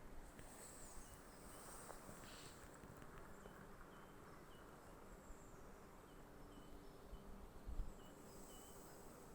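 Quiet forest ambience with faint bird calls: short high chirps repeating every half second or so, with thinner, higher calls at the start and near the end. A soft low bump about three-quarters of the way through.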